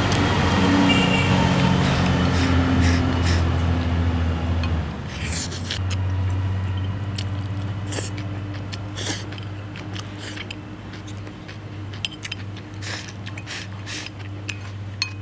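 Close-up eating sounds: chewing and biting on braised pig's trotter meat and skin, with scattered short clicks and smacks. A steady low hum runs underneath and is louder for the first five seconds.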